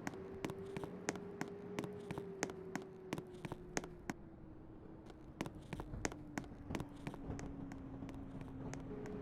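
Train running: a steady whine that slowly drops in pitch and then steps back up near the end, with frequent sharp, irregular clicks and ticks over a low rumble.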